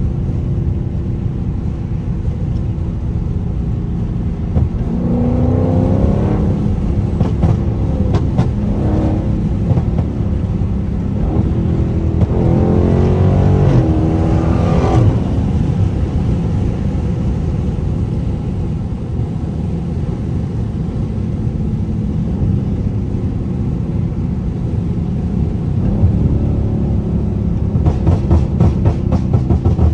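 Dodge Charger 392's 6.4-litre HEMI V8 exhaust from inside the car, rumbling steadily and climbing in pitch under acceleration twice, about five seconds in and again around twelve seconds. Rapid crackling pops from the pop-tuned exhaust come near the end, as the throttle is let off.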